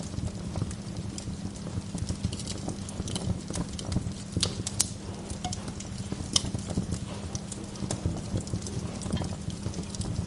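Wood fire crackling in a fireplace: irregular snaps and pops over a steady low rumble of the flames, with a few sharper pops around the middle.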